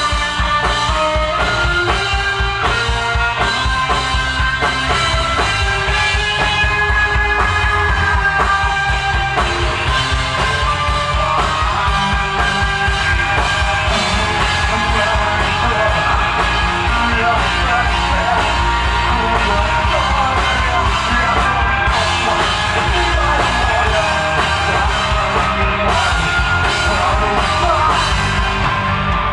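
Live alternative rock band playing loudly, with a driving drum kit, guitars and vocals.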